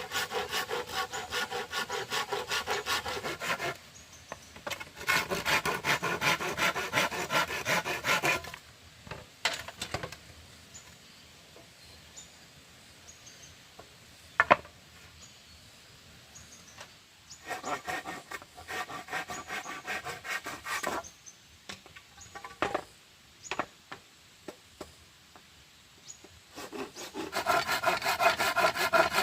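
Hand saw cutting through wood in four bursts of quick, even strokes, with pauses between them. The pauses hold scattered small knocks and one sharp knock about halfway through.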